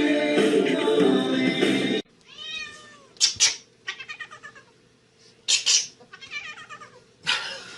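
Background music for about two seconds, cut off abruptly, then a house cat meowing repeatedly: a drawn-out rising-and-falling meow, a run of short chirping calls and three louder, sharper meows.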